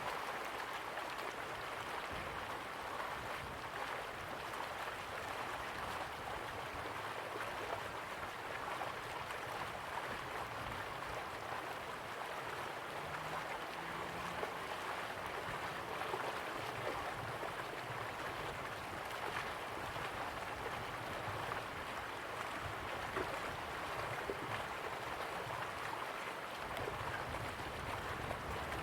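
River water flowing slowly, a steady even rush of water.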